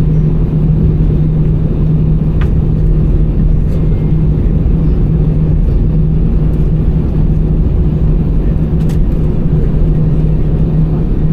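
Airbus A320-200 cabin noise on the ground after landing: a steady low rumble with a steady hum, and a few faint clicks.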